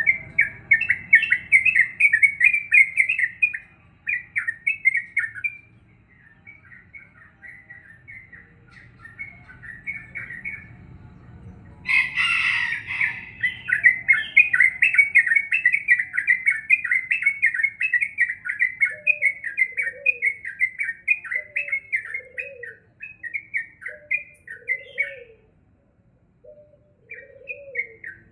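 Yellow-vented bulbul (trucukan) singing in long runs of rapid, chattering notes, with a short harsh burst about twelve seconds in. From about two-thirds of the way through, a dove coos low notes roughly once a second underneath.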